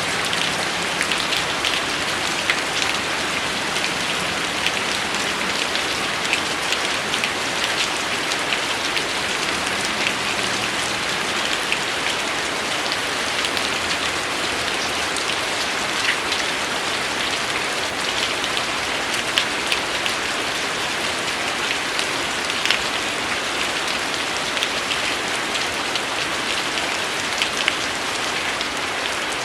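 Steady rain falling: an even hiss of rain with many individual drops ticking sharply through it.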